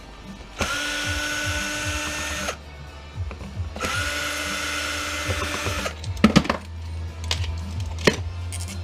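Power drill running twice for about two seconds each, driving out fasteners, followed by a few sharp clicks and knocks of loosened metal parts.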